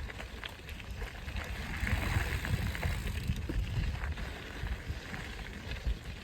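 Mountain bike rolling along a dirt trail, its tyres crunching with scattered small clicks and rattles, while wind buffets the microphone in an uneven low rumble.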